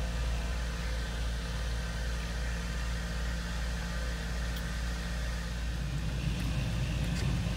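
Steady low rumble of a car's engine and the surrounding road traffic, heard from inside the car's cabin.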